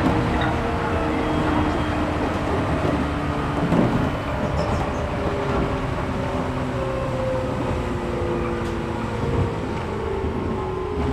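Resistance-controlled 113 series electric train running on the rails, heard from inside the car: motor and gear whine falling slowly in pitch as the train slows, over the rumble of the wheels on the track. A single knock comes about four seconds in.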